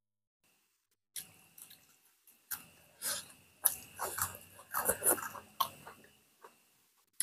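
Close-miked eating sounds of people chewing boiled pork and rice, wet chewing with irregular sharp smacks, starting about a second in after a moment of silence.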